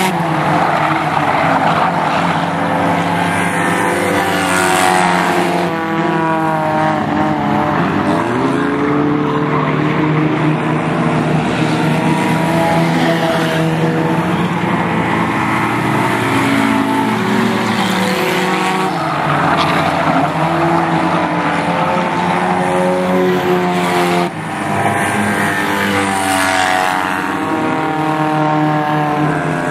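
Several race car engines running at speed together, their notes rising and falling as the cars pass and go round, with a short dip in the noise about three-quarters of the way through.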